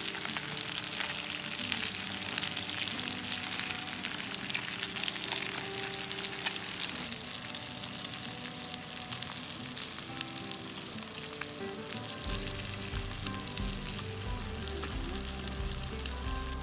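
Food sizzling and frying in a cast iron skillet over a campfire: a steady hiss with small scattered pops, easing somewhat about halfway through. Background music with a deep bass comes in near the end.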